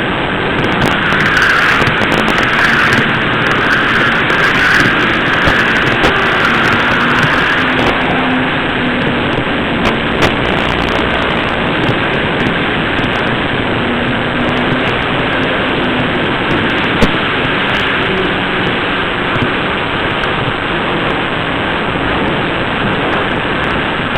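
N scale model train running along the track, picked up by a camera riding on it: a steady rolling noise with a motor whine that wavers in pitch, and a few sharp clicks along the way.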